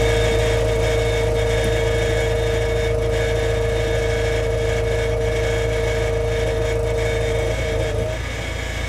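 JCB 3DX backhoe loader's diesel engine running steadily with a high whine over it; the whine stops about seven and a half seconds in and the engine sound drops a little. The engine runs although the diesel pump solenoid is open.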